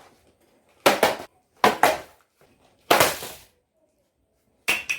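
A cardboard snack box being forced open by hand: loud sharp knocks and rips in four bursts, the third one longer.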